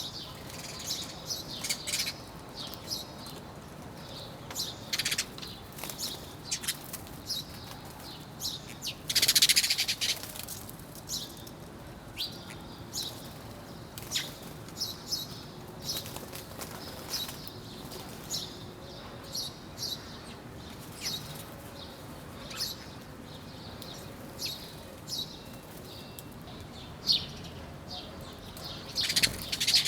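Small birds chirping: many short, high chirps scattered throughout, with one louder, harsher burst of calls about nine seconds in.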